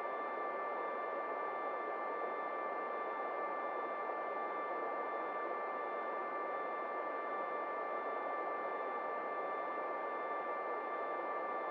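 Quiet, unchanging drone of filtered noise with a few thin high tones held above it and no beat: the ambient opening of an electronic music track.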